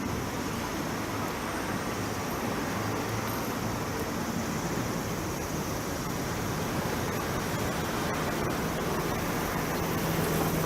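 Steady street ambience of road traffic: a constant wash of passing-vehicle noise with a faint low hum.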